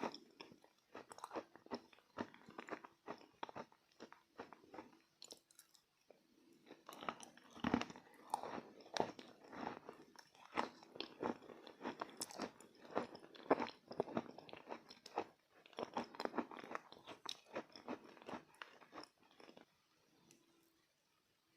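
Edible chalk being bitten and chewed close to the microphone: a dense run of uneven, crisp crunches that thins out for a couple of seconds, picks up again, and stops a couple of seconds before the end.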